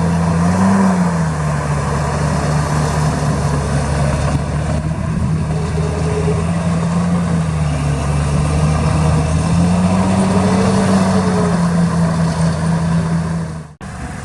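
Heavy diesel engine of earthmoving machinery running steadily, its engine speed rising and falling gently. The sound breaks off abruptly near the end.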